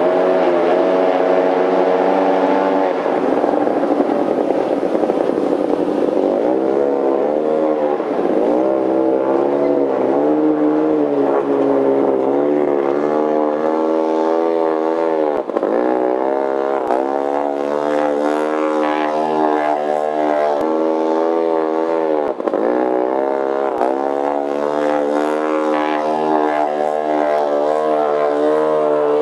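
Antique outboard motor running hard and steady, its pitch dipping sharply and recovering about three times.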